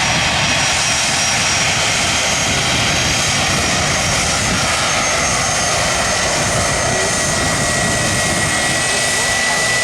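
Aircraft engines running loud and steady: a dense roar with thin high whining tones, one of them rising slightly in pitch near the end.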